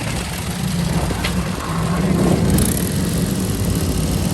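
Vehicle engine running steadily at low revs with a low rumble. There is a short click a little over a second in.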